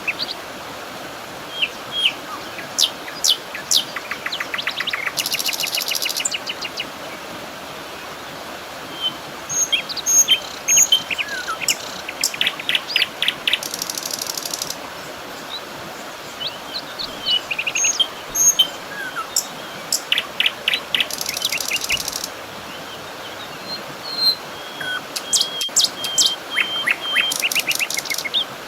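Several birds singing and calling: overlapping chirps, quick trills and short whistles, over a steady low background hiss.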